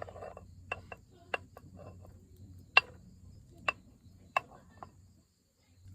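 Light clinks of cooking utensils against metal cookware: about six sharp, irregularly spaced taps with a brief ring, over a faint low hum.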